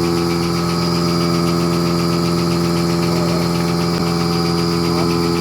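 Milking machine's motor and vacuum pump running steadily with an even drone, with a single short click about four seconds in.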